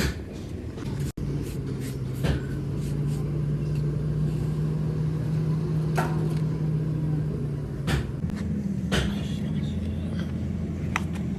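Factory machinery running with a steady low hum whose pitch steps up about eight seconds in, with several sharp metal knocks and clanks along the way.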